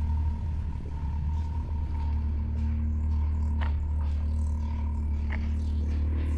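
Off-road vehicle engines running steadily at crawling speed, a low drone, with two or three short clicks or knocks over it.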